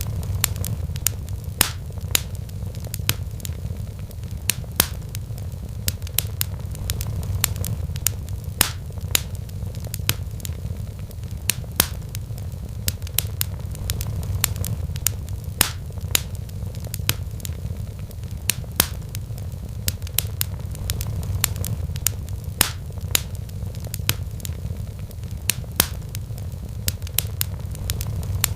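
Wood fire crackling in a fireplace, with irregular sharp pops and snaps of burning logs, over a low rumble of a cat purring that swells and eases about every two seconds.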